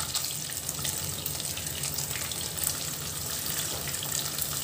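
Paneer cubes sizzling and crackling in hot oil as they shallow-fry in a kadhai, being turned over with a wooden spatula. A steady low hum runs underneath.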